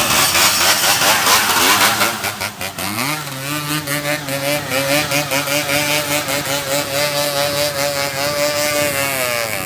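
Dirt bike engine running hard. About three seconds in the revs rise and are held high and fairly steady, with slight wavering, then drop just before the end.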